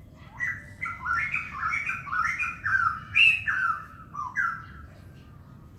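A wild songbird singing a quick run of short whistled notes, each sliding down in pitch, for about four seconds, loudest a little past the middle, then stopping.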